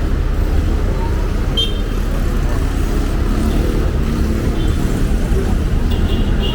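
Steady road traffic noise from vehicles running along a busy city avenue, with brief faint high squeaks about one and a half seconds in and near the end.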